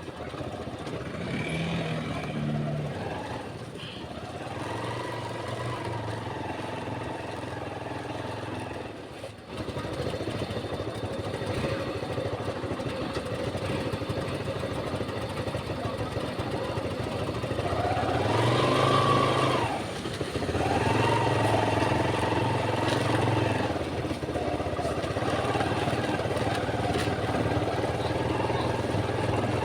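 Motorcycle engine running while being ridden, its pitch shifting in steps and rising with throttle and gear changes. There is a louder rev about two-thirds of the way through.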